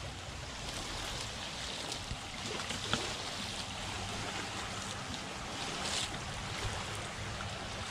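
Shallow water lapping and washing at the shoreline, a steady wash, with a brief brighter rush about six seconds in.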